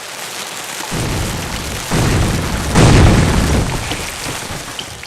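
A swelling rush of noise with three deep booms about a second apart, the loudest near the middle, then fading away: an intro sound effect.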